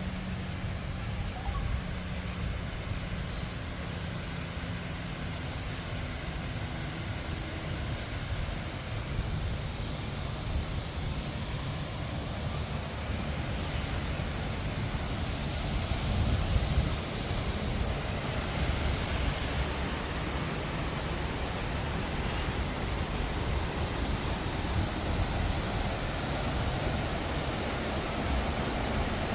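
Steady rushing of falling water, growing gradually louder.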